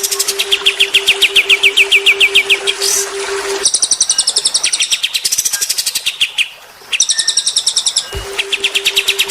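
Recorded songs of cililin and kapas tembak birds mixed as a training track for cage birds: fast runs of high, repeated chirps, about six a second, switching between phrases. A steady low hum sits under the song in the first few seconds and again near the end.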